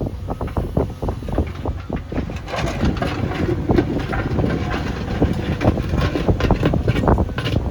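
JCB backhoe loader's diesel engine running while it works the soil, with many irregular clanks and rattles from the machine.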